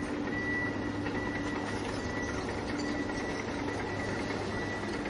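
Small electric motors of radio-controlled toy construction vehicles running with a steady hum, with short high beeps sounding on and off.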